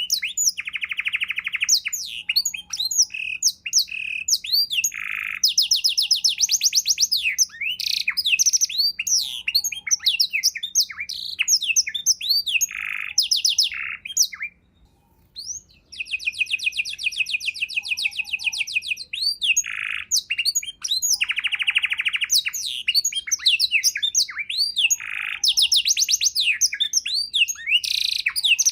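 Domestic canary singing a long, fast song of rapid trills and buzzy rolls, filled with phrases learned from other birds. The song breaks off for about a second halfway through, then resumes.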